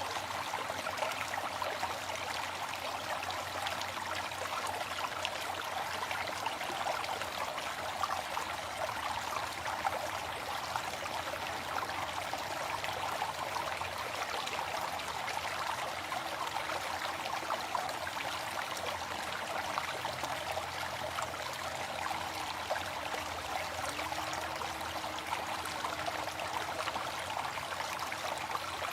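Waterfall: water falling and splashing steadily, an even rushing hiss with fine spatter and no pauses.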